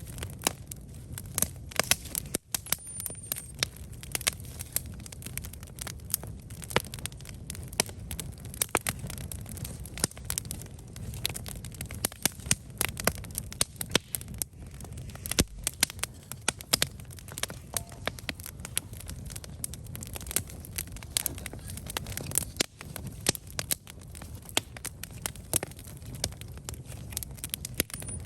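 Wood campfire burning, with sharp irregular crackles and pops over a low steady rumble of flame.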